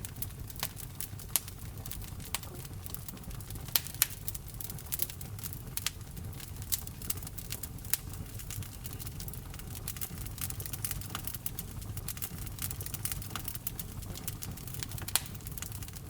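Wood fire burning in a fireplace: a low steady rumble of the flames with irregular sharp crackles and pops, a few louder snaps among them.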